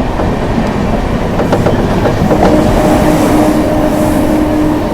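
A suburban EMU local train running at speed, its wheels clattering and rattling over the track. A steady low hum joins about two seconds in.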